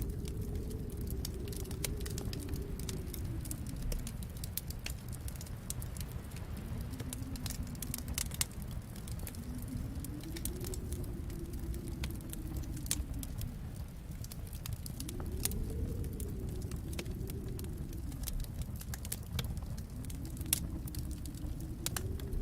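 Wood fire crackling with scattered sharp pops, over a low rumble of snowstorm wind that rises and falls in slow waves.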